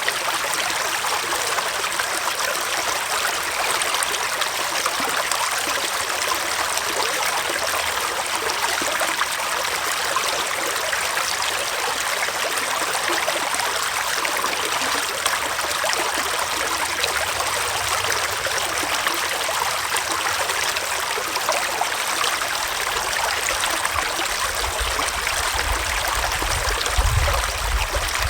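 Small forest stream flowing, a steady rushing and trickling of water. A low rumble comes in near the end.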